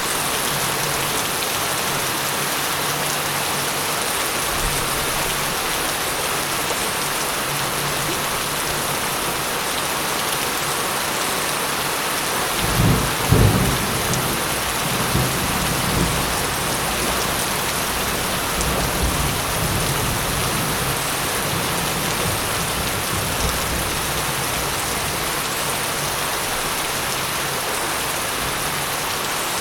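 Steady heavy rain falling, with a rumble of thunder that breaks out about midway, peaks within a second and rolls on in fading swells for several seconds.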